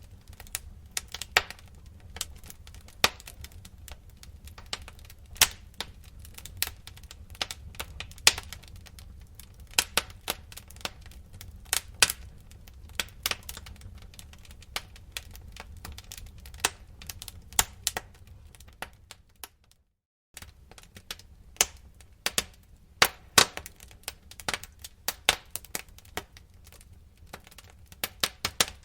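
Wood fire crackling in a fireplace: irregular sharp snaps and pops over a low steady rumble, cutting out completely for about half a second roughly two-thirds of the way through.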